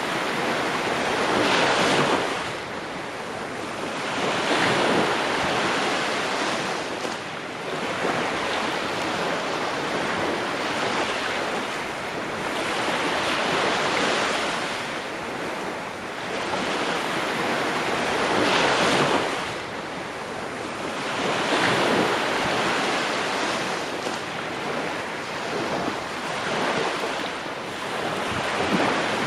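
Ocean waves breaking and washing on a shore, the surf swelling and falling away every few seconds.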